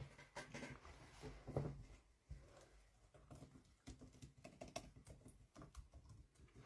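Near silence with faint, scattered clicks and soft taps, the small handling and touching noises of a phone being held close to the microphone.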